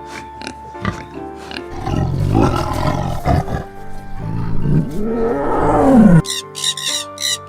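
A big cat roaring over light background music. The roar is rough and deep, builds in loudness, and cuts off suddenly about six seconds in.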